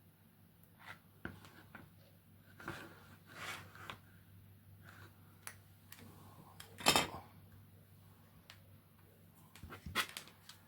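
Scattered light clicks, taps and rubbing from hard plastic parts being handled, loudest about seven seconds in and again near ten seconds.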